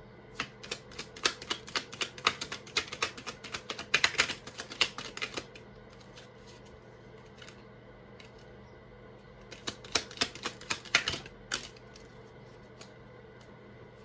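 Oracle cards being shuffled by hand: two runs of rapid clicking, the first about five seconds long, the second about two seconds long starting near ten seconds in.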